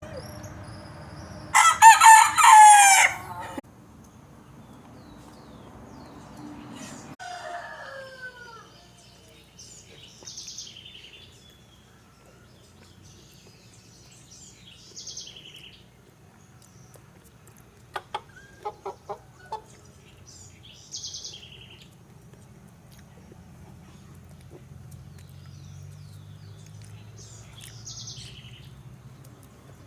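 Rooster crowing once, a loud call of about two seconds, followed by quieter fowl clucks and scattered faint high bird chirps.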